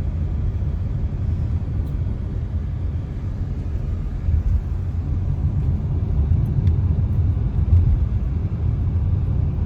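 Car with a faulty exhaust that needs replacing, driving with a loud, low rumble that grows slightly louder from about four seconds in.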